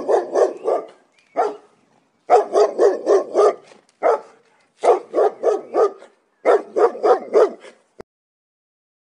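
Dog barking in quick runs of four to six barks, with single barks between the runs; the barking stops abruptly about eight seconds in.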